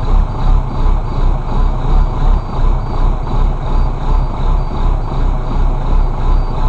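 International DTA360 turbo-diesel inline-six running at a cold idle just after a cold start, held off the throttle because the oil is thick; its sound swells and fades about twice a second.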